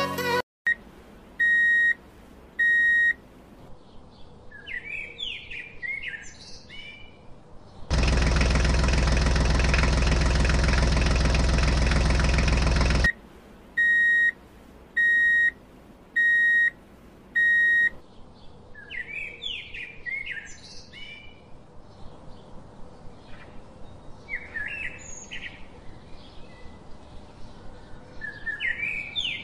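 Birds chirping, with two runs of evenly spaced electronic beeps about a second apart, three and then four. A loud, steady noise lasts about five seconds in the middle.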